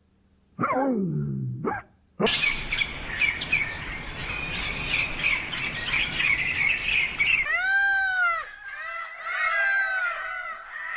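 Animal calls: a short falling yelp, then a dense chorus of many birds chirping that starts suddenly about two seconds in and cuts off abruptly, followed by a series of high, arching calls rising and falling in pitch.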